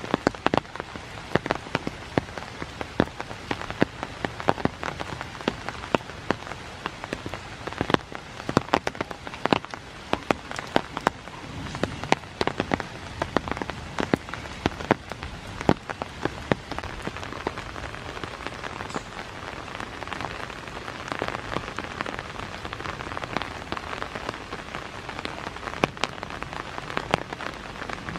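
Rain falling steadily, with many close, heavy drops striking as sharp taps, thickest in the first half; later the rain settles into a smoother, steady hiss.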